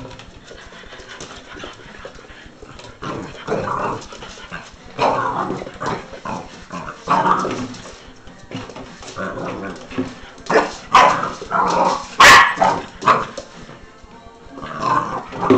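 Boxer puppy barking in play in a string of short bursts, with one sharp plastic crack of a water bottle about twelve seconds in, the loudest sound.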